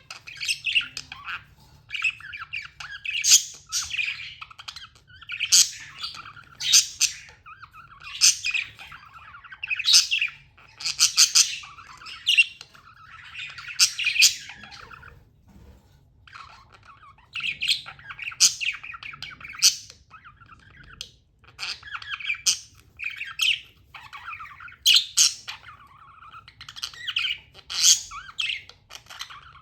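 Budgerigars chirping and chattering in rapid bursts of high calls, one after another, with a short pause about halfway through.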